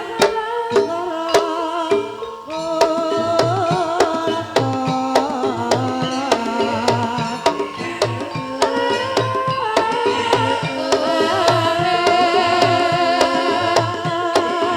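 Javanese gamelan music accompanying an ebeg hobby-horse dance: kendang hand-drum strokes in a steady rhythm under sustained, wavering melodic lines.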